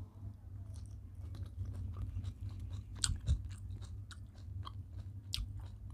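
Close-up mouth sounds of eating rice with shukto: wet chewing with many short, irregular clicks and smacks. A steady low hum runs underneath.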